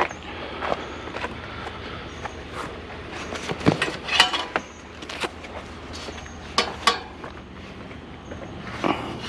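Scattered knocks and clanks of a scrap item being handled and pulled at by hand, with a cluster of sharper clanks in the middle.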